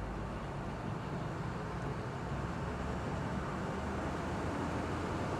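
Amphibious Duck tour vehicle cruising on the river, its engine running with a steady low drone under an even rush of noise.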